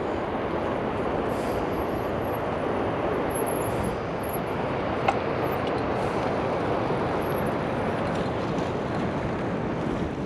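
Steady wind noise on the microphone and tyre rumble from an electric bike riding along a paved trail, with a single sharp click about five seconds in.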